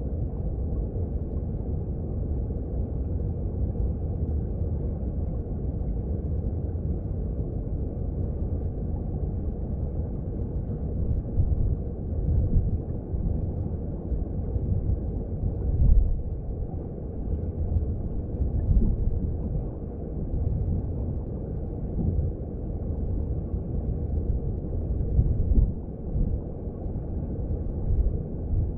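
Mountain stream heard underwater: a low, muffled rush of flowing water, with irregular louder surges from about ten seconds in.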